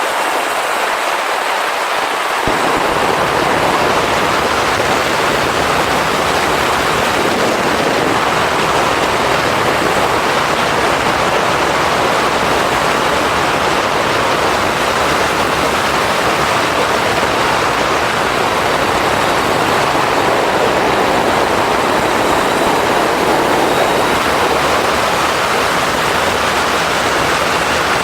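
Steady rush of wind and road noise on the camera on a moving motorcycle, with no distinct engine note standing out; the rush grows fuller and deeper about two and a half seconds in.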